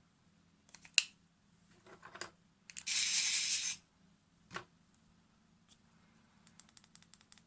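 A Vaporesso Luxe XR Max pod mod being handled and tested: a sharp click, then a loud airy hiss lasting about a second, another click, and a quick run of small clicks near the end.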